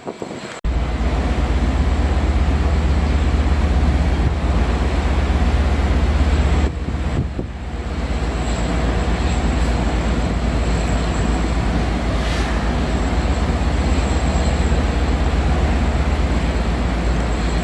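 Tropical-storm wind blasting the microphone: loud, steady wind noise with a deep rumble. It cuts in about half a second in and dips briefly near seven seconds.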